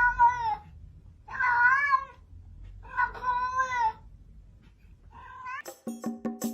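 A cat meowing: long drawn-out meows about a second and a half apart, then a short one. Music with percussive clicks starts near the end.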